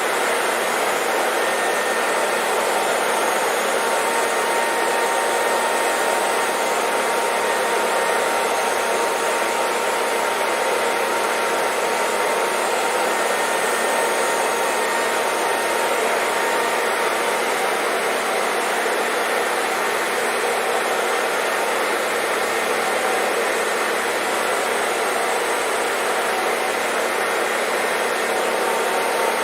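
Hair dryer running steadily at a constant pitch, an even rush of blowing air with a faint steady motor whine.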